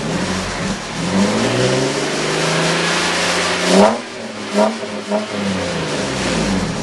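Lexus IS 300 inline-six exhaust through a 3-inch catback and a Dynomax muffler with an internal flapper door, being revved. One long rev climbs to a peak nearly four seconds in and drops off sharply, then come two quick blips of the throttle before it settles back to a steady lower run.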